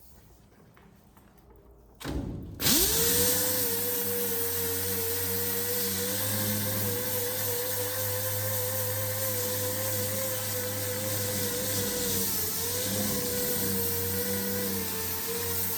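Big 8-inch geared body sander (Bondo Hog) with a short knock about two seconds in, then spinning up about half a second later. It runs on at a steady pitch with a hiss, sanding paint and primer off the truck bed's steel panels.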